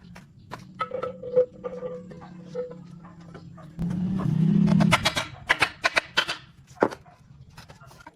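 Car engine running at idle with a steady low hum, revved briefly about four seconds in. Sharp clicks and taps sound over it.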